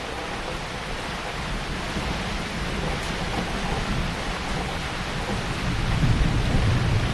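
Heavy rain falling steadily, with a low rumble of thunder building underneath and growing louder toward the end.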